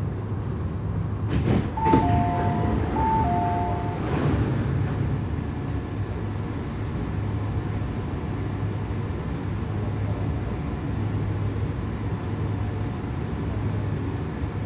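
Steady low hum and rumble inside an MTR CAF train's passenger car, with knocks and a two-note descending electronic chime, high then low, sounding twice about two seconds in.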